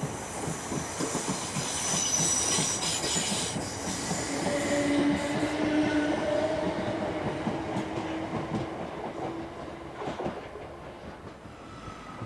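A train running on the rails past the microphone: wheels clattering with a squeal and a whine whose pitch shifts. It is loudest in the first half and fades toward the end.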